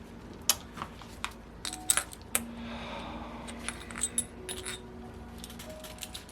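Small metal engine parts and tools clinking and tapping against each other, a dozen or so sharp clicks with brief metallic ringing, as a model glow engine is taken apart.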